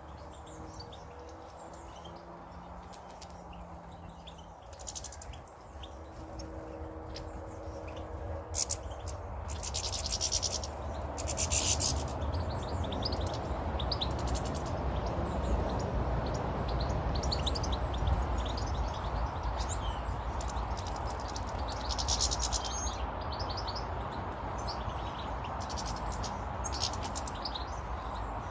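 Small garden birds chirping and twittering in many short, high calls, over a low steady rumble that grows louder about eight seconds in.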